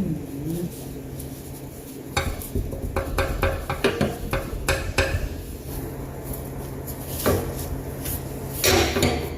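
Metal hand tools clinking and clanking against metal: a quick run of knocks a couple of seconds in, then scattered knocks and a rattling clatter near the end.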